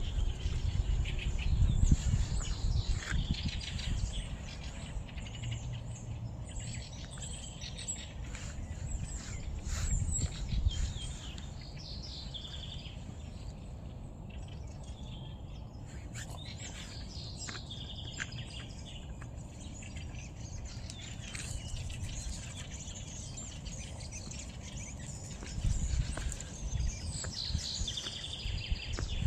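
Small songbirds chirping and singing, many short high calls and trills. A low rumble runs underneath, strongest in the first few seconds and again near the end.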